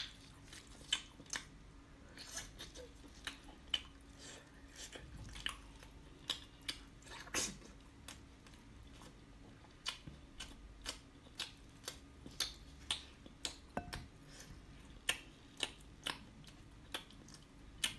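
Close-miked chewing of braised whole octopus stuffed with rice: soft, irregular wet clicks and smacks, one or two a second, over a faint steady hum.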